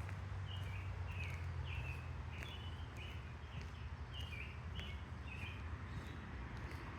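A songbird calling in the woods: a run of about ten short, slightly falling chirps, a little under two a second, over a steady low rumble.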